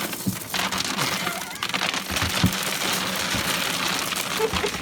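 Dense, steady crackling and rustling noise, full of many small clicks.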